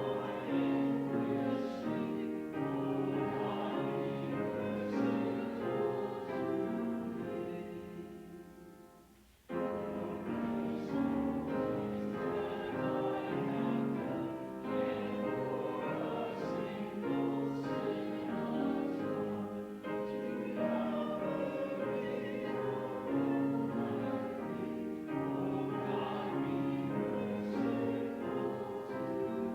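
A congregation singing a hymn with keyboard accompaniment. The music fades out about eight seconds in and starts again abruptly after a short break.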